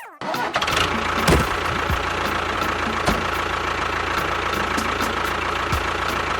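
A motor running steadily with a constant whine and a few knocks. It cuts in suddenly at the very start.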